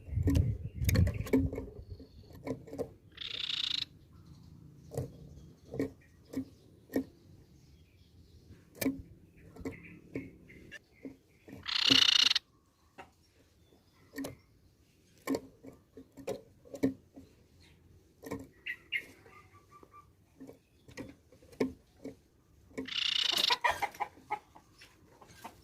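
Crescent-chested babbler (tepus pipi perak) giving three harsh churring calls, each about a second long, with many short sharp ticks in between.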